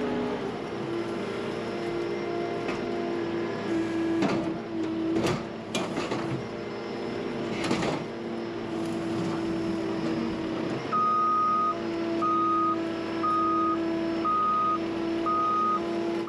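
Skid steer engine running steadily, with several metal clanks and knocks of scrap being moved; about eleven seconds in its reversing alarm starts, five loud beeps a little over a second apart.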